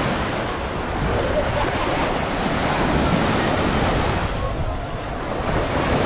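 Sea waves breaking and washing up on a sandy beach, with wind buffeting the microphone. The surf eases a little and swells again near the end.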